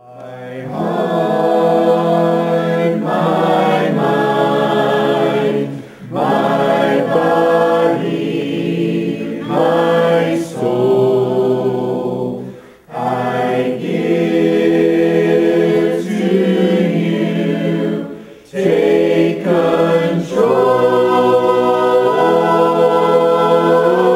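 A group of voices singing a hymn a cappella in parts, in held phrases a few seconds long with short breaks between them.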